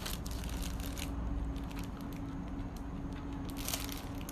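Plastic packaging crinkling and crackling in short bursts as it is handled, over a steady low hum.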